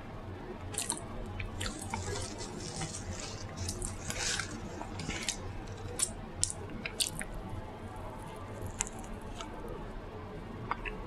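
Close-miked eating sounds: wet chewing and lip-smacking clicks, busiest in the first half and thinning out later.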